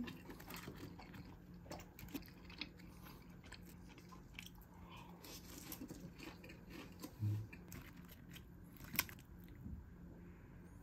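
Close-miked chewing of Korean blood sausage (sundae) and pork lung, with faint wet mouth clicks throughout. There is a brief low sound about seven seconds in and a sharp click about nine seconds in.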